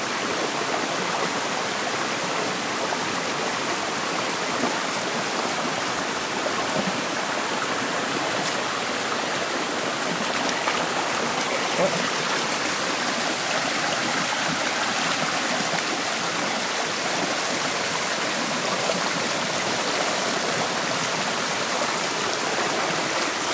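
Water of a waterfall and its stream rushing steadily.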